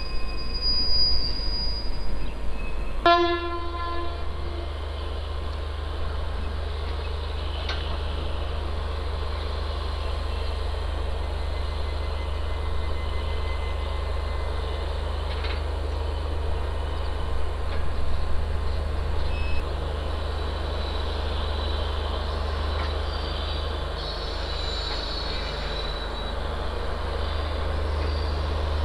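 Passenger express train passing on the line with steady rolling noise. A high wheel squeal sounds at the start, and a short horn blast comes about three seconds in.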